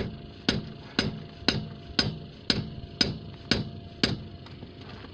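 Hammer blows on metal at a steady two a second, about nine strikes, stopping about four seconds in: hammering on a wheel's rounded-off, chewed-up lug nut.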